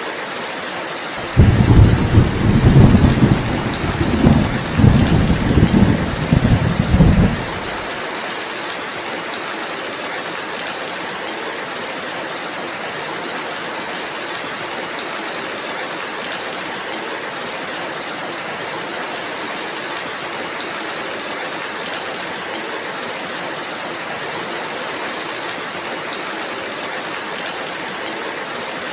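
Steady rain falling, with a roll of thunder about a second in that rumbles in several surges for around six seconds and then cuts off abruptly.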